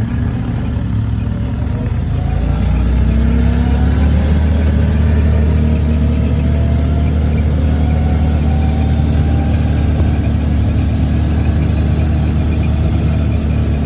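Motor vehicle engine running under load, loud and steady, its pitch climbing slowly from about two seconds in and easing back near the end.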